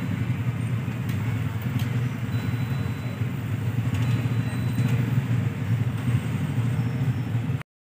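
Motorcycle and car engines idling in a queue of waiting traffic, a steady low sound with faint street noise above it. The audio drops out abruptly near the end.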